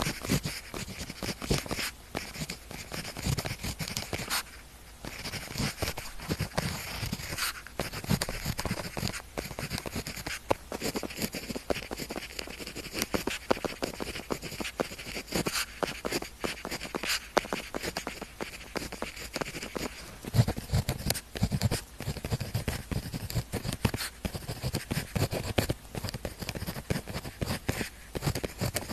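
Pen nib scratching across paper in quick, continuous writing strokes, with small taps as the pen lifts and touches down.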